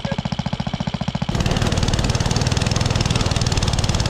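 Small engine of a mini bike or go-kart putting along at low speed, then opened up about a second in and running louder and harder under throttle.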